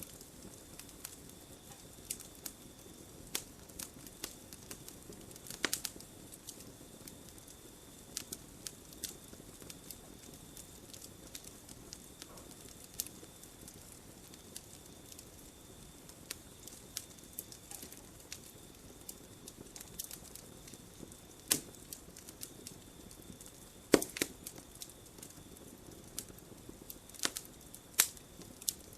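Campfire of burning wood crackling, with irregular sharp snaps and a few louder pops over a low hiss, and a faint steady high tone underneath.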